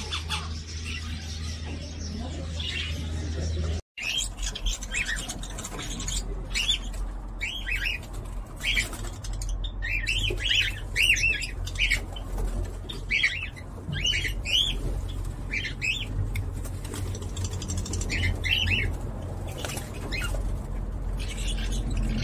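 Birds chirping: clusters of short, high, arching chirps, several in quick succession, over a steady low hum.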